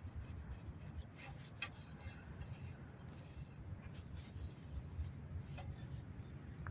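A few light clicks and ticks, most of them in the first two seconds, over a steady low rumble.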